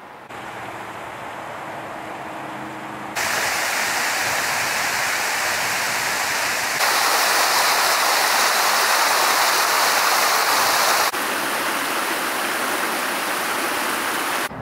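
Steady rushing water, with its loudness jumping abruptly between level stretches several times.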